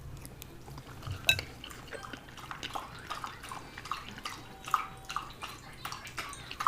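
Close-miked chewing of a mouthful of fried egg: wet mouth clicks and smacks, a few a second and irregular, with one sharper click about a second in.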